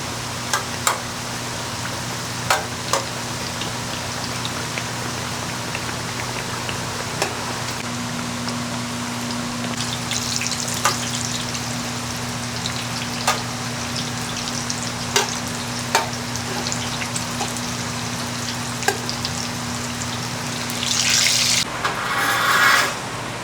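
Dough frying in hot oil: a steady sizzle with scattered sharp pops, swelling to a louder hiss near the end.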